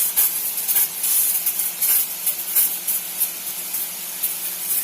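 Steady, gusty hiss of water spraying from overhead sprinkler pipes in a mushroom-growing shed, with a low steady hum underneath.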